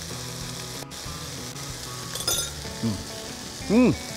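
Pork and green bell peppers sizzling in a wok over soft background music. A single clink comes about two seconds in, then two short hums that rise and fall in pitch near the end as the dish is tasted.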